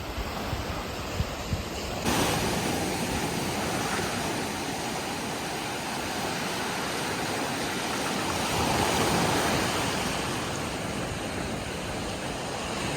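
Ocean surf washing steadily onto a beach, with wind buffeting the microphone as low thumps in the first couple of seconds. About two seconds in, the sound abruptly switches to a fuller, steadier wash of surf that swells a little near the end.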